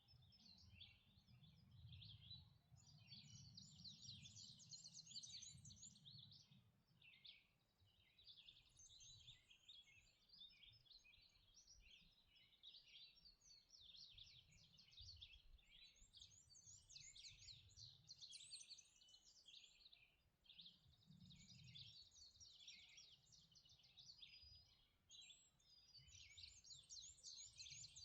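Faint dawn chorus of songbirds singing continuously, many overlapping rapid high chirps and trills, over a low rumble.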